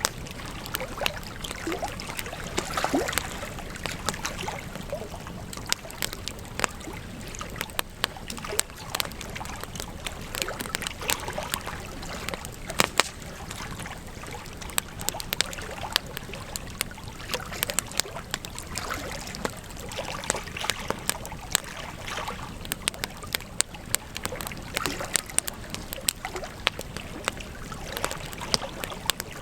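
Campfire of burning wood crackling, with frequent irregular sharp pops and snaps over a steady hiss. One of the loudest snaps comes about 13 seconds in.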